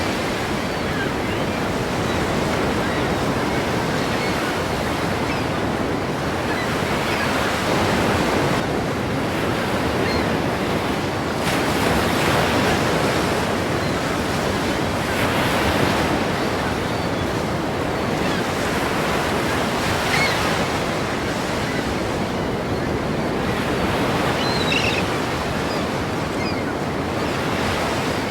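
Ocean waves crashing: a continuous wash of surf that swells louder as each wave breaks, every few seconds.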